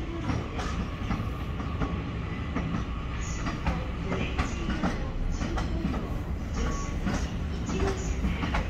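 E001 Train Suite Shiki-shima moving slowly through the station yard: wheels clicking irregularly over rail joints and points over a steady low rumble.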